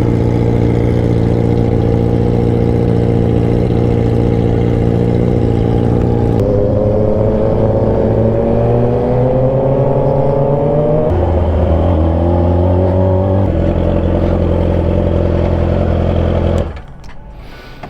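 Yamaha R6 sport bike's inline-four engine running steadily, then revving up for about five seconds before a gear change drops the pitch. Near the end the sound falls off sharply.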